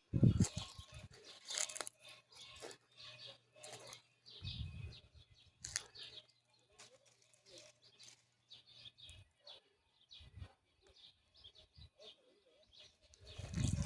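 Scattered short bird chirps, with a few low thumps.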